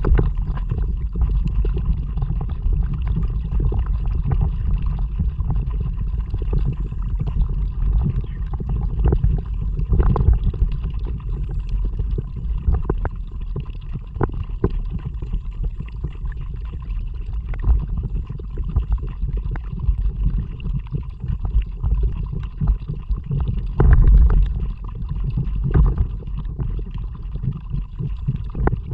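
Low rumbling water and wind noise on an action camera's microphone aboard a moving kayak, with short sharp splashes or knocks now and then.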